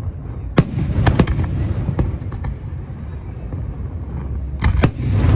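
Aerial fireworks bursting overhead: sharp bangs about half a second in, a quick pair around one second, another at two seconds and two more near the end, some trailing into crackle, over a steady low rumble.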